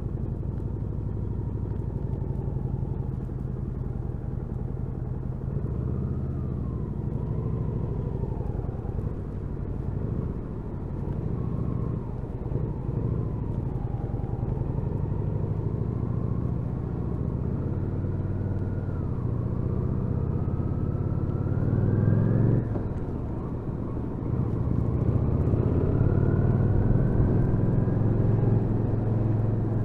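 Kawasaki VN800 Drifter's V-twin engine running under way, its pitch rising and falling with the throttle. The pitch climbs steadily to a peak a little past the two-thirds mark, drops abruptly as at a gear change, then climbs again.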